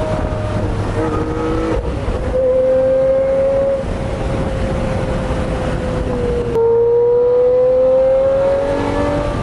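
Lamborghini Murciélago V12 with a Fabspeed straight-pipe exhaust under way. The revs climb, ease slowly down, then climb again in a louder stretch from about two-thirds through.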